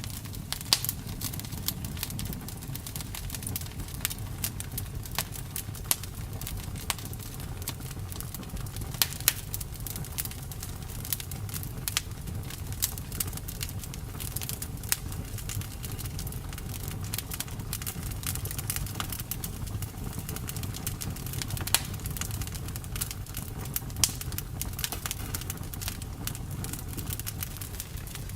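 Wood fire burning, with a steady low rumble of the flames and frequent irregular sharp crackles and pops of burning wood.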